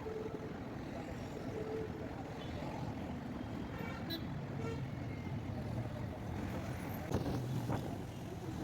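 Steady road traffic noise from passing vehicles, with a few short horn toots in the first half and a couple of sharp knocks about seven seconds in.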